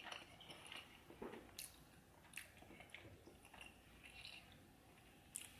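Faint close-up chewing, with soft wet mouth sounds and scattered small clicks and one sharper click near the end.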